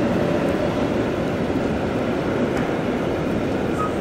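Freight train of container wagons running across a steel truss railway bridge: a steady, even rail noise from the passing wagons.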